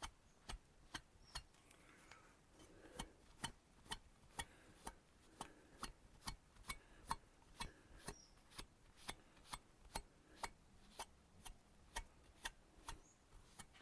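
Faint, evenly spaced ticking, about two ticks a second, with a faint soft rubbing now and then.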